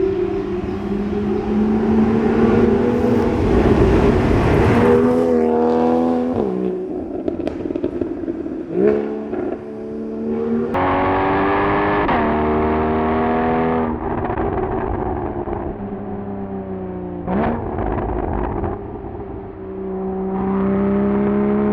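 Porsche 981 Cayman's flat-six engine through a SOUL Performance valveless exhaust, pulling hard with its pitch climbing under acceleration, then dropping sharply as the throttle is lifted or a gear is changed, about four times over.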